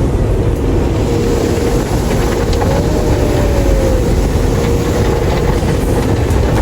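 Steady low mechanical rumble with a constant hum, and a brief tone that rises and falls about three seconds in.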